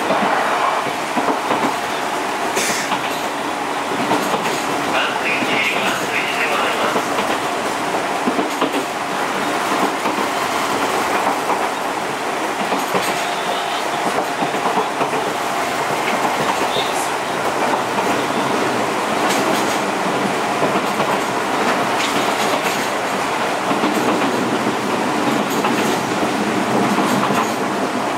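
Enshu Railway 1000 series electric train running, heard at the gangway between two cars: a steady rumble of wheels on rail with clickety-clack over rail joints. Short clanks and rattles come now and then, as from the gangway footplates shifting against each other.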